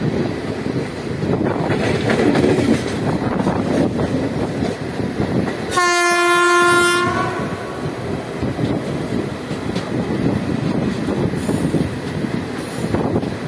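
Running noise of an Indian Railways passenger coach rolling over the rails, heard from the coach's open doorway. About six seconds in, a locomotive horn sounds once in a single steady blast of a little over a second.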